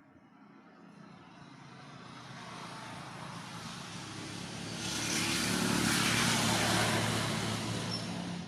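A vehicle passing by: its engine hum and rushing noise grow louder over several seconds, are loudest from about five to seven and a half seconds in, then fade quickly near the end.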